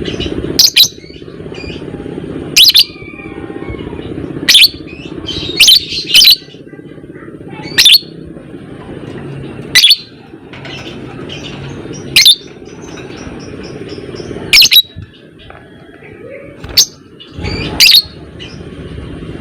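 Lovebird giving short, loud, piercing calls about every two seconds, a few of them in quick pairs, over a steady low rumble.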